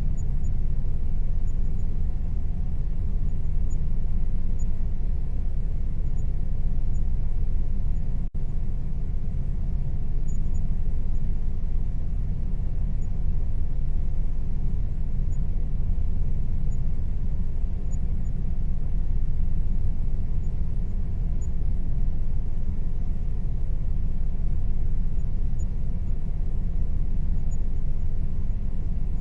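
Air conditioner running steadily with a low rumbling hum, cutting out for an instant about eight seconds in.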